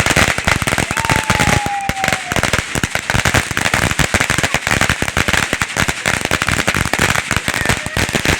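Firecrackers going off in a rapid, continuous string of sharp pops, many a second. About a second in, a thin whistle sounds for about a second, sliding slightly down in pitch.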